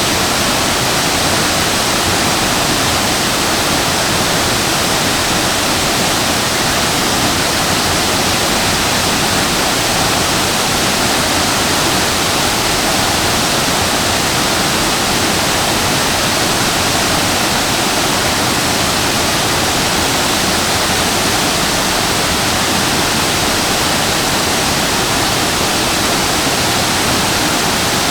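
Waterfall crashing steadily into its plunge pool: a loud, even rush of falling water.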